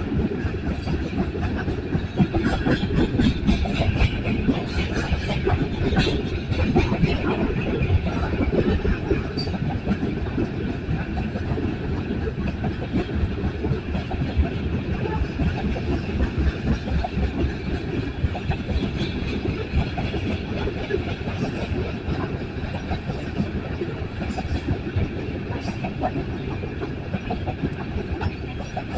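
A BNSF coal train's cars rolling past: a steady rumble of steel wheels on rail with many short clicks, busiest in the first several seconds.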